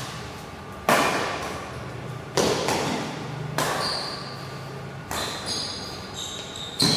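Badminton rally: rackets striking the shuttlecock five times, roughly every second and a half, each sharp hit ringing in a large hall. Short high squeaks come in from about halfway through.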